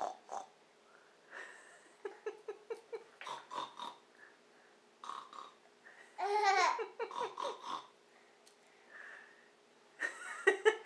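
A toddler's voice answering "what does a pig say?" with short babbled sounds and laughter, his attempt at a pig noise. About six seconds in comes one louder, longer vocal sound that wavers up and down in pitch.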